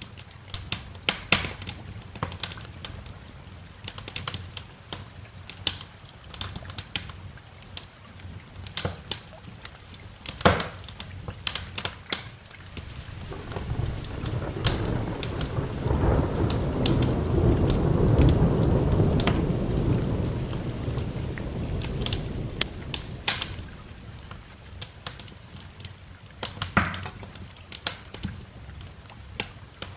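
Wood fire crackling, with sharp pops all through. A long roll of thunder swells up about halfway through and slowly dies away, over a light hiss of rain.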